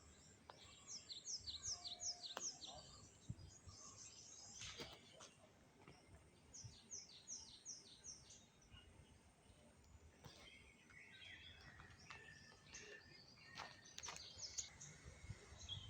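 Faint birdsong: a phrase of about six quick, high, down-slurred notes, sung twice, with scattered chirps later on.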